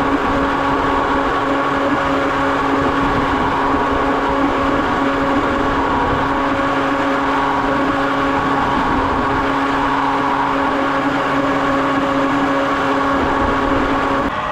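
A jet boat's motor running steadily with a constant whine, which drops out just before the end.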